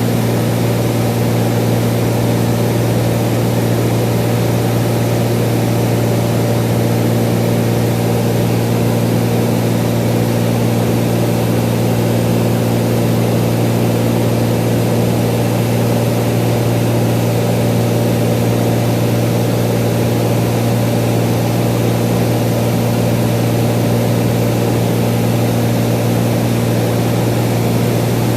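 Cessna 182's piston engine and propeller droning steadily in flight, with an even low hum and no change in pitch or power.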